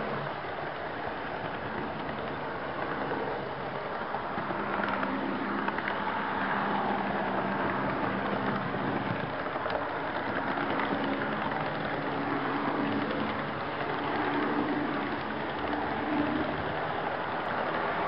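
HO scale model train in motion, heard from a camera riding on a depressed-center flatcar in the consist: a steady rolling rattle of the wheels on the track, with a low hum that comes and goes.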